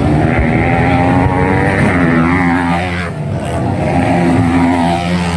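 155cc trail motorcycle engines revving hard in a grasstrack race, their pitch wavering up and down, easing off briefly about three seconds in and then climbing again.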